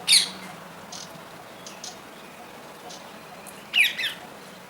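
Baby parrot calling: a short, sharp squawk right at the start and a quick double squawk near the end, with a few faint chirps in between.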